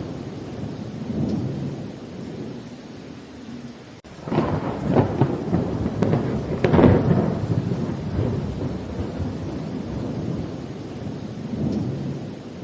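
Thunderstorm: a low rumble of distant thunder over rain, then about four seconds in a sharp crackling thunderclap that rolls on and slowly dies away.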